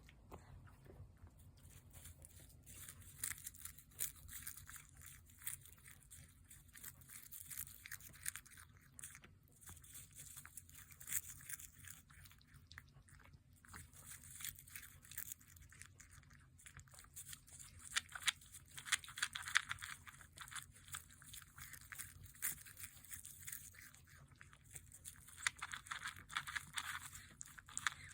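A cat eating dry kibble mixed with Churu paste and bonito flakes, with a continuous run of quick, irregular crisp crunches as it chews.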